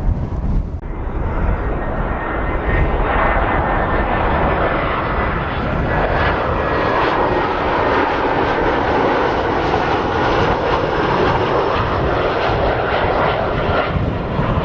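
Jet airliner's engines heard passing close, a loud steady jet noise that swells up about a second in and holds.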